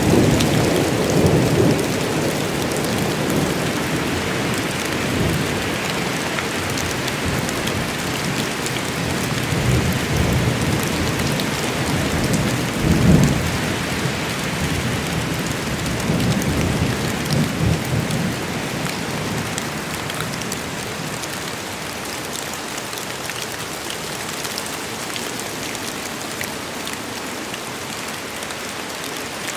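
Steady rain falling, with thunder rumbling low beneath it through the first part. The loudest roll comes about halfway through, and the thunder then dies away while the rain keeps on.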